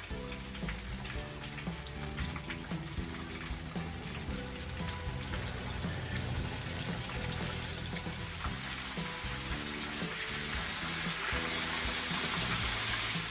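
Breaded chicken breast pieces deep-frying in hot oil, a steady sizzle that grows louder toward the end, with background music.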